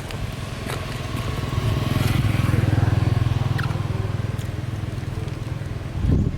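A small engine running with a low, fast pulsing hum that grows louder over the first two seconds or so and then slowly fades.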